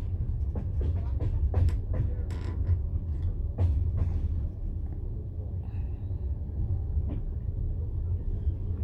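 Passenger train carriage rolling along the track, heard from inside: a steady low rumble with sharp clicks, knocks and creaks from the wheels and car body. The clicks come thickly in the first half and thin out after that.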